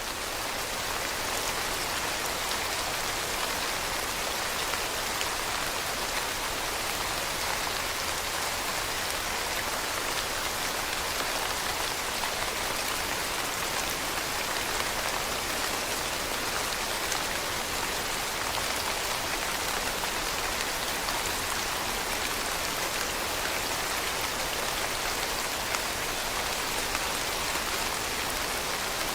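Steady rain falling, an even hiss with dense drop patter on surfaces.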